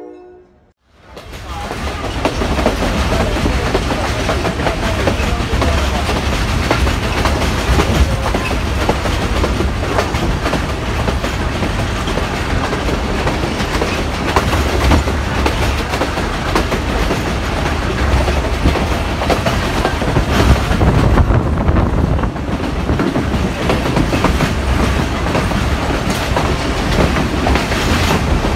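Pakistan Railways passenger train running at speed, heard from inside a coach at the window: a steady low rumble with the repeated clatter of wheels over the rails, starting about a second in.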